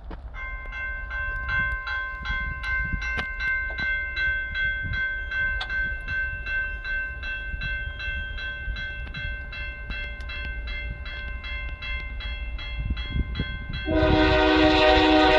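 Level crossing warning bell ringing steadily, a rapid even ding about three times a second. Near the end a locomotive horn starts sounding loudly and holds.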